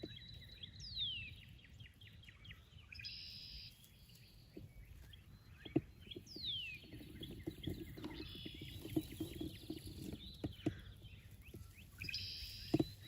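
Wild songbirds calling in the open: a clear downward-sliding whistle about every five to six seconds, with short buzzy trills between. Under them runs a low wind rumble, broken by a few sharp knocks.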